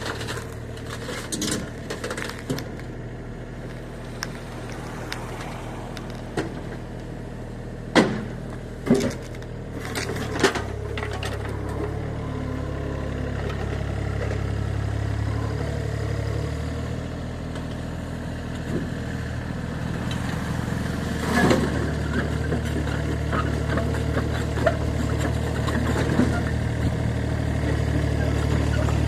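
Mini excavator engine running steadily, its revs rising and falling, with several sharp metal clanks, the loudest about eight to ten seconds in and again a little past twenty seconds.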